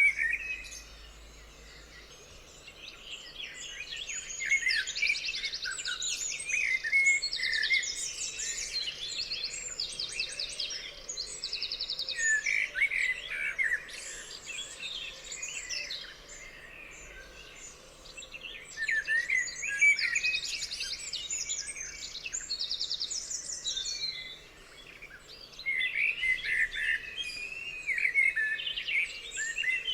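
Several songbirds singing and calling together: a mix of chirps and fast trills, coming in waves with brief lulls between them.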